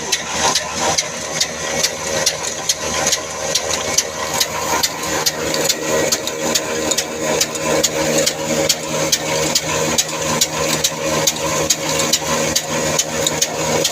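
Old 24 hp black diesel engine running steadily, each firing stroke a regular knock, about three a second.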